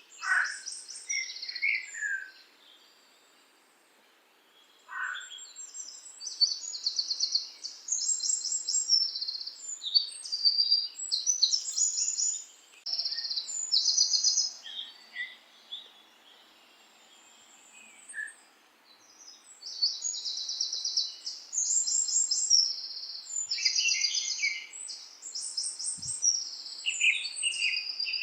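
Songbirds chirping and singing in quick, high trills, several calls overlapping, with a few falling whistled notes and two short lulls.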